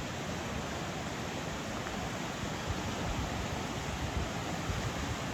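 Storm-swollen river rushing heavily, a steady rush of water after hurricane rains.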